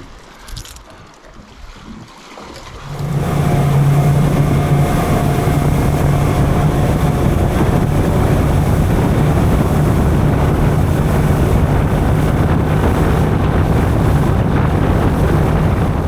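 Boat's outboard motor running under way, a steady hum with wind rushing over the microphone. It comes in about three seconds in and cuts off suddenly at the end.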